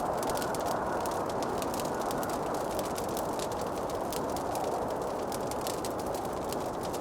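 Wood fire crackling, with many small irregular pops over a steady low rushing noise.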